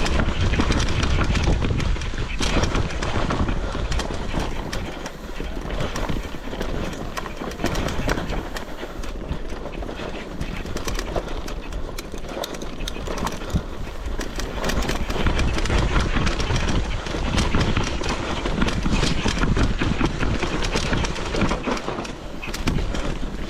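Mountain bike rattling and clattering at speed over rough, rocky ground, many quick knocks from tyres and frame, over a steady low rumble of wind on the microphone.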